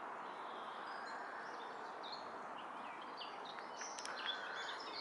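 Small birds chirping and calling in short notes over a steady outdoor background hiss; the calls grow more frequent in the second half.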